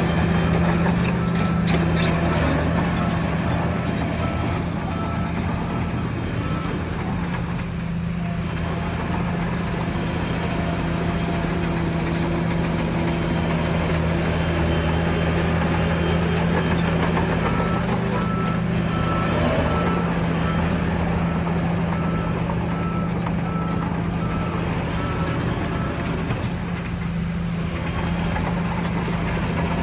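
Heavy diesel engine of a Shantui bulldozer running steadily at work. A reversing alarm beeps over it in two spells: for the first seven seconds or so, and again from just past halfway until a few seconds before the end.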